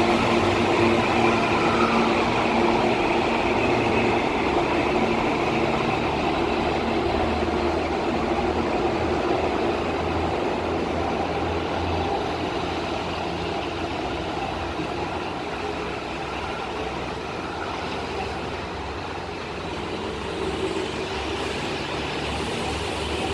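Electric commuter train pulling away, its traction motors whining with a tone that rises in pitch near the start, the sound slowly fading as it moves off.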